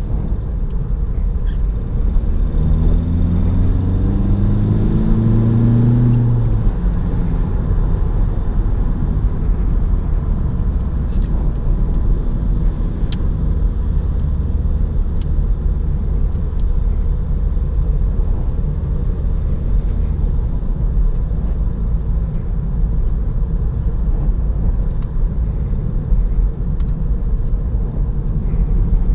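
Opel Astra 1.6 BiTurbo CDTI diesel engine and road noise during driving. Between about two and seven seconds in, the engine note rises in pitch in a few short steps as the car accelerates through the gears. After that a steady low drone of cruising carries on.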